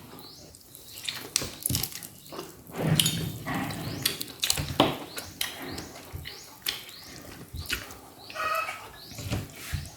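Close-miked chewing and lip-smacking while eating roast chicken: irregular wet clicks and smacks, with a short pitched mouth sound near the end.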